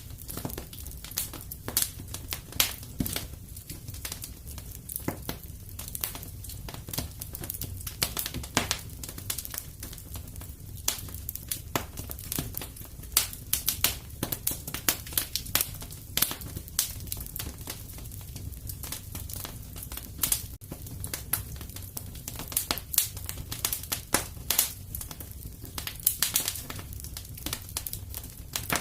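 Wood fire crackling in a fireplace: an irregular, constant run of sharp pops and snaps over a low, steady rumble of the flames.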